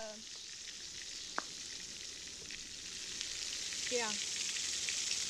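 Battered pickles frying in hot oil: a steady sizzle with fine crackling, and one light tick a little over a second in.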